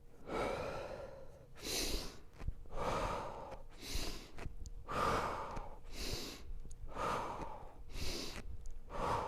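A person breathing heavily and rhythmically through a breathing drill, about one in-and-out cycle every two seconds. A longer, fuller breath alternates with a short, sharp hiss.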